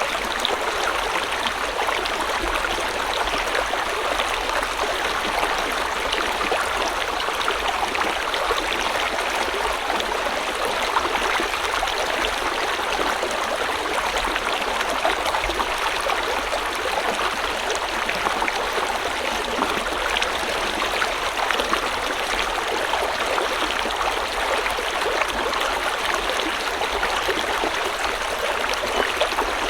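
River water flowing over stones, a steady rushing with fine gurgles and splashes throughout.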